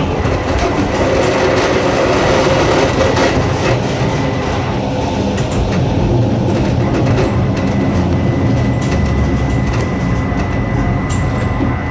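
Narrow-gauge electric train of the Sangi Railway Hokusei Line running, with the steady drone of its nose-suspended traction motors and scattered clicks and clatter from the wheels on the rails.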